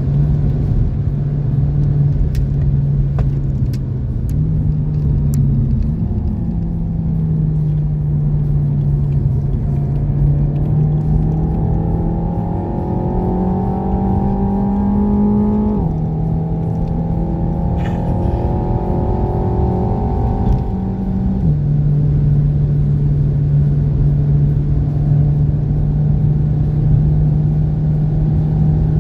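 Renault Mégane RS Trophy's turbocharged four-cylinder engine under load, heard from inside the cabin at speed, its pitch climbing slowly through a gear and dropping sharply at an upshift about halfway through, then dropping again some five seconds later. A constant low rumble of tyre and road noise lies beneath.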